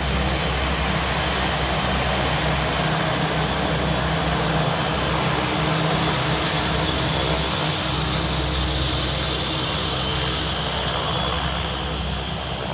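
An OV-10 Bronco's twin turboprop engines running steadily on the ground, with a constant high turbine whine over the propeller drone.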